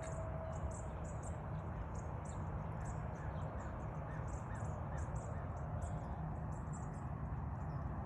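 Birds calling outdoors, short high chirps repeating every fraction of a second, over a steady low rumble.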